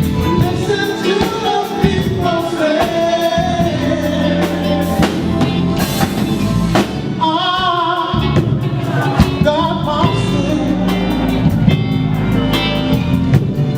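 A live band playing a gospel-style song: a singer over keyboards, guitar and a drum kit.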